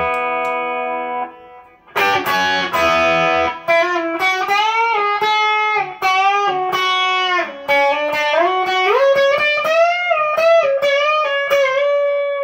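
Electric guitar, a single-coil Stratocaster through a Fender Twin Reverb amp. A chord rings out and stops just over a second in, a second chord is struck about two seconds in, and then comes a lead line of single notes with string bends and long sustained notes.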